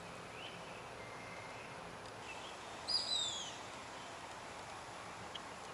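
Birds calling among trees over a steady outdoor background hiss: faint high thin notes in the first two seconds, then a louder call about three seconds in of two quick high notes sliding downward.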